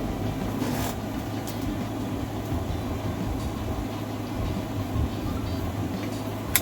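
Steady low hum in the room, with a few faint ticks and one sharp snap near the end as wire cutters bite through wired twine.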